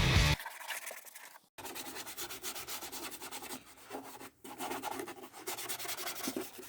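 Brush scrubbing a scooter's shampooed plastic body panel: a quick run of rasping back-and-forth strokes that starts about a second and a half in.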